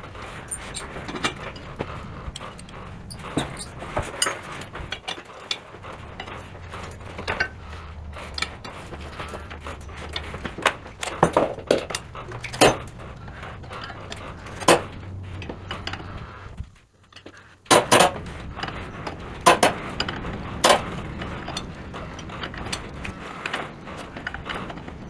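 Metal clinks and knocks of hand tools on bolts and iron parts as the old sawmill's hardware is worked apart, a scattered run of sharp clicks over a low steady background, with a short drop-out about two thirds through.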